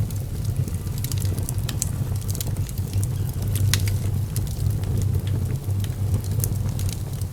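Fire burning in a fireplace, crackling with frequent small sharp pops over a steady low rumble.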